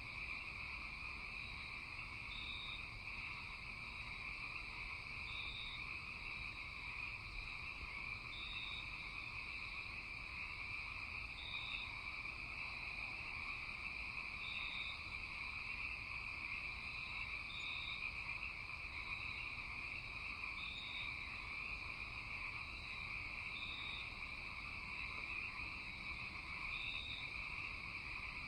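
Night chorus of frogs and insects: a steady, unbroken high trilling, with a short high note repeating about every three seconds.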